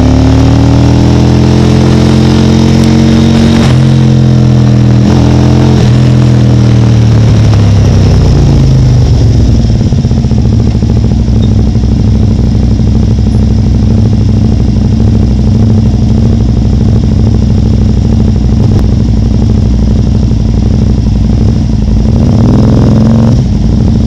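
Can-Am Spyder three-wheelers' V-twin engines running in a group ride: the engine note holds steady, falls in pitch as the bikes slow about seven seconds in, then runs low and steady, with a brief rise near the end.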